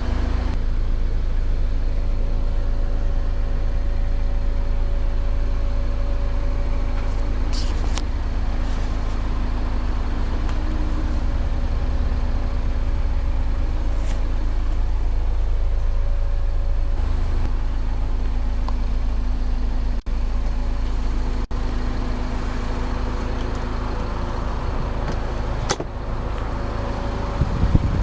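Car engine idling: a steady low rumble with a constant hum, broken by a few faint clicks.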